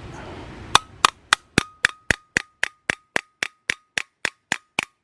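A hammer tapping a silicone bronze rivet set through a diffuser plate, in a quick even run of sharp metal strikes, about four a second, starting under a second in. Each strike carries a faint metallic ring.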